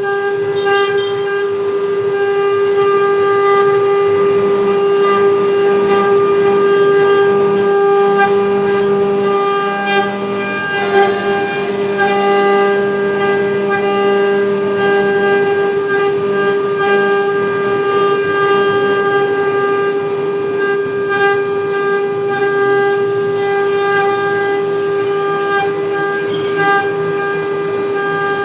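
Spindle motors of a four-head 1325 CNC router running with a steady high-pitched whine and a rougher, shifting noise underneath.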